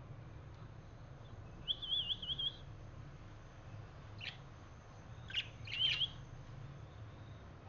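Budgerigar chirping: a short warbling trill about two seconds in, then a sharp chirp and a quick cluster of chirps ending in a brief warble, over a faint low steady hum.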